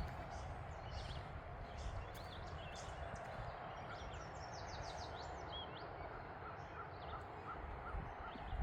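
Several small birds chirping and singing, with a run of about eight evenly spaced short notes in the middle. A low, steady rumble runs underneath.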